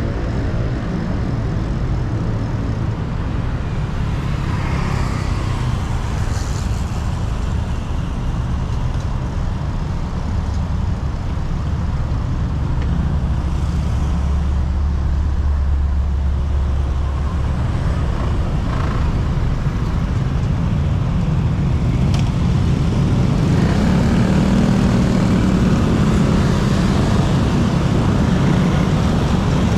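Road traffic from cars and other motor vehicles running steadily around a bicycle, growing somewhat louder in the last several seconds.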